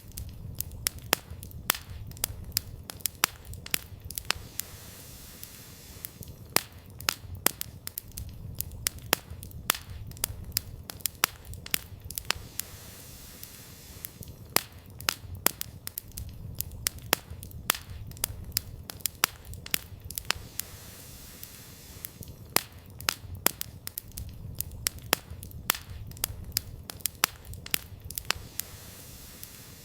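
Wood campfire crackling: irregular sharp pops and snaps, often in quick clusters, over a steady low rumble of the burning fire.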